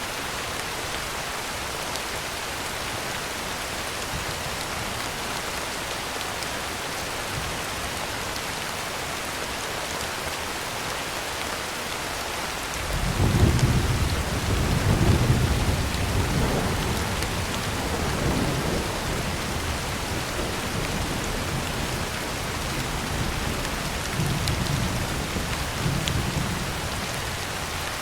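Heavy rain drumming steadily on a tin roof. About halfway through, a deep roll of thunder comes in suddenly, is loudest for the first few seconds, then rumbles on in weaker swells and fades near the end.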